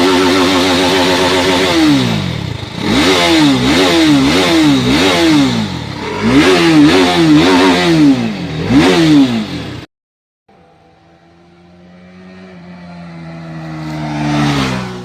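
TVS Apache RR 310 motorcycle's single-cylinder engine revved through its exhaust: held at high revs for about two seconds, then blipped over and over in quick rising-and-falling revs. It cuts off suddenly about ten seconds in, and then an engine approaches, grows louder and passes by with a falling pitch near the end.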